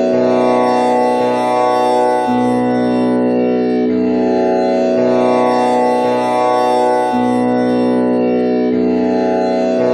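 Tanpura drone tuned to B, with one string set to komal Ni (the flat seventh) rather than Pa. Its strings are plucked one after another in a repeating cycle, a new pluck every second or two, each note ringing on into the next with a rich shimmer of overtones.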